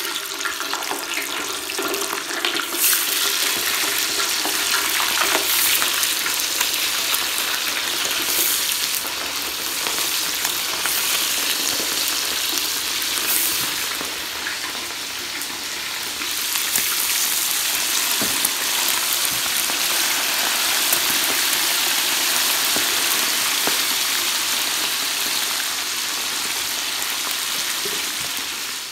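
Chicken wings deep-frying in a pot of hot oil: loud, steady sizzling with constant crackles and pops from the bubbling oil.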